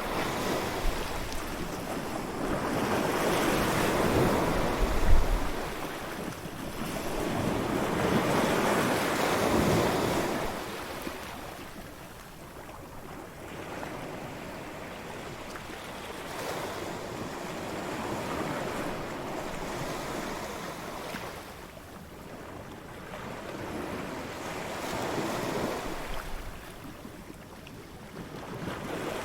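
Ocean waves breaking and washing up a beach, the surf swelling and ebbing every few seconds, with wind buffeting the microphone.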